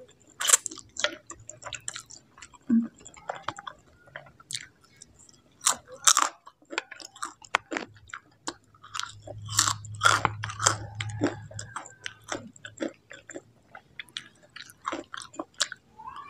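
Close-miked mouth sounds of a person eating spicy instant noodles: irregular wet chewing with many short smacks and clicks.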